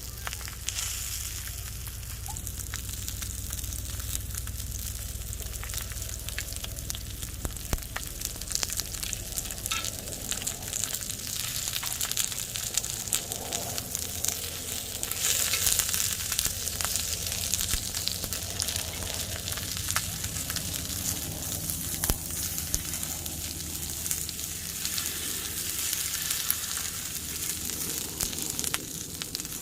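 Food frying on a hot griddle: a steady sizzle with many small pops and spatters of hot fat, a little louder around the middle.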